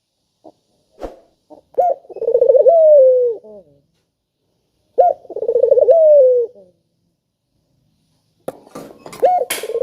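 A dove cooing: three phrases, each a short note, then a quick rolling series, then a long falling note. There are a few faint clicks before the first phrase and a brief rustle-like noise during the last.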